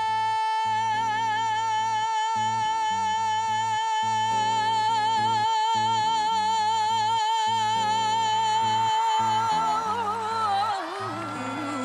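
A singer holds one long, high sustained note for about ten seconds, the vibrato growing wider, over sustained band chords with a moving bass line. Near the end the note wavers and breaks off as the music fades.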